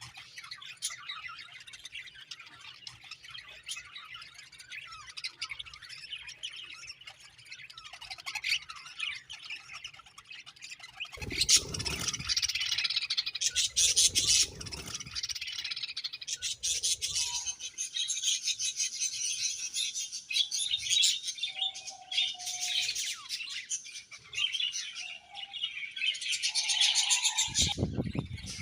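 A budgerigar flock chirping and chattering continuously, with warbles and squawks. Louder rushes of noise break in about two-fifths of the way in and again near the end.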